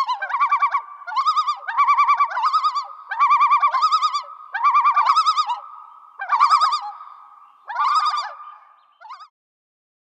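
A bird calling in a run of about seven quick, quavering phrases, each under a second long, over a faint steady tone. The calls stop a little after nine seconds in.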